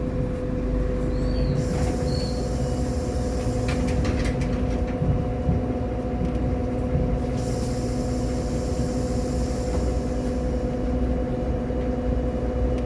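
Irisbus Agora L city bus running, with a low rumble, a steady whine held at one pitch and small rattles.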